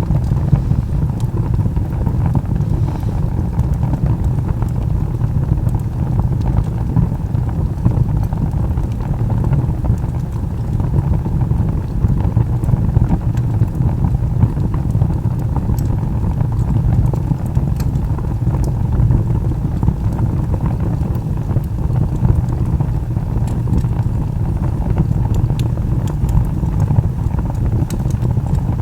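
Wood fire burning: a steady low roar of flames with scattered sharp crackles and pops from the burning logs.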